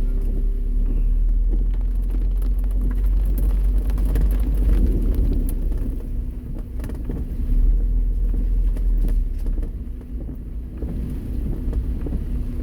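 Inside a car driving on a wet road in the rain with the windows open: a steady low rumble of wind buffeting and road noise, with scattered light ticks of raindrops.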